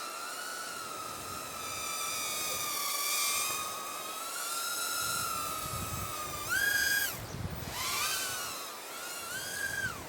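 Cheerson CX10 micro quadcopter's tiny motors and propellers whining in flight, a high whine that wavers in pitch and twice in the second half jumps sharply higher for under a second before dropping back. Wind rumbles on the microphone through the second half.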